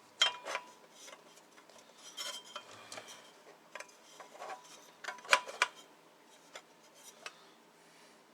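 Metal top cover being handled and fitted onto an amplifier chassis: light metallic clinks and clatter, loudest in two clusters, just after the start and about five seconds in.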